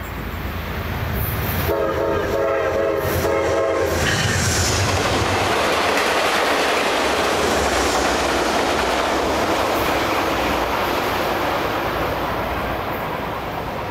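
Metro-North passenger train sounding its horn for about two seconds as it approaches, then rumbling and clattering past at speed, the noise easing off near the end as the last cars go by.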